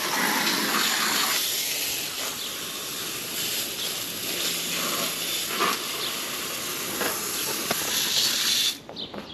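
Water from a hose spraying onto an overheated AC compressor's hot shell: a steady hiss that cuts off sharply near the end. The compressor is being cooled so its internal thermal overload can reset.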